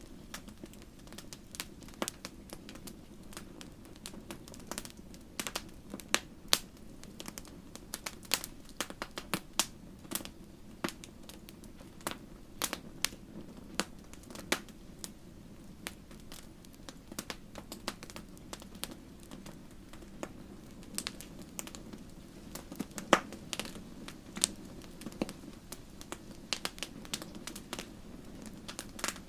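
Wood fire crackling in a fireplace: a steady low rumble of burning with frequent irregular sharp pops and snaps, one louder pop about two-thirds of the way through.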